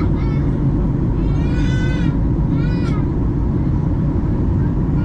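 Steady low cabin rumble of a Boeing 737-800 and its CFM56-7B engines. Over it come a few short, high-pitched, wavering cries: one at the start, a longer one about a second and a half in, and another near three seconds in.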